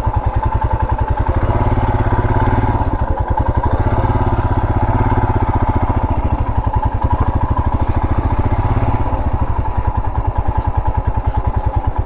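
Royal Enfield Himalayan's 411 cc single-cylinder engine running steadily at low speed with an even pulsing beat, a little louder for several seconds in the middle.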